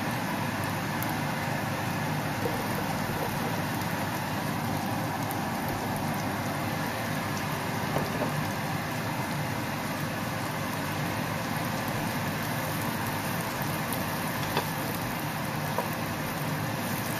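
Broccoli florets, garlic and mushrooms sizzling steadily in a hot frying pan, with a few faint clicks about halfway and near the end as the food is moved.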